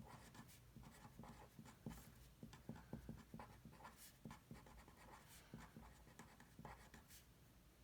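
Faint sounds of handwriting: short scratchy strokes and light ticks of a pen or marker being written with, at an uneven pace.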